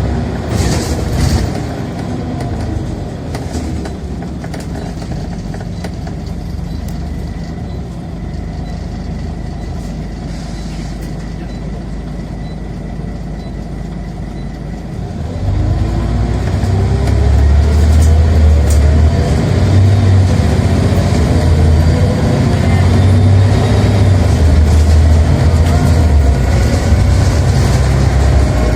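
Scania Omnicity bus's diesel engine heard from on board, running steadily at first, then about halfway through it opens up under hard acceleration and stays loud, its pitch rising again and again as it pulls through the gears.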